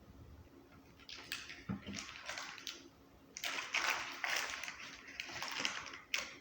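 Kimchi being handled: wet squishing and sloshing in a string of irregular noisy bursts, loudest in the second half, ending with a sharp click.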